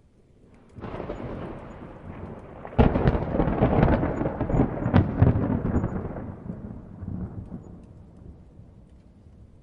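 A thunderclap in a storm. A rumble builds about a second in, then a sharp crack nearly three seconds in sets off the loudest stretch of rolling thunder, which fades slowly over the last few seconds to light rain.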